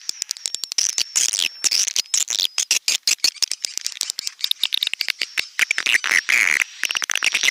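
Swiftlets chattering: a dense stream of rapid clicks with buzzy trills and short chirps. This is a recorded swiftlet call track of the kind played to lure swiftlets into nesting houses.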